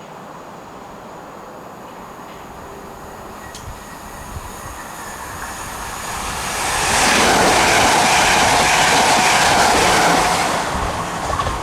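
Train hauled by the steam locomotive 60163 Tornado, a Peppercorn A1 Pacific, passing close by. The rumble and rail noise build over several seconds, stay at their loudest for about four seconds, then ease off a little as the train keeps rolling past.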